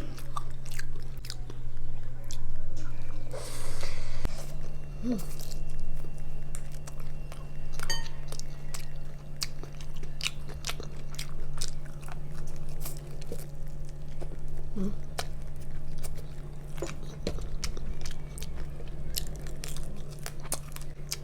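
Close-miked chewing and biting of crunchy food, with irregular crackles and crunches and a pulsing loudness, over a steady low hum.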